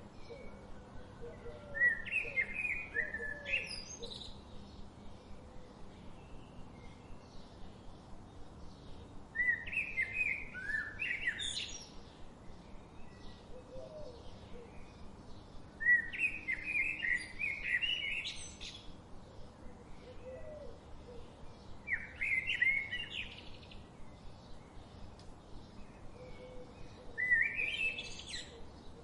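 Birds singing: one bird repeats a bright, rising song phrase of about two seconds, five times, roughly every six seconds. Fainter, rapid chirping from other birds continues between the phrases.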